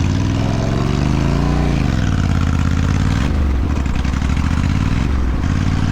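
Motorcycle engine under way, revving up for about a second and a half and then dropping, with two more dips in revs near the middle and the end, as when changing gear.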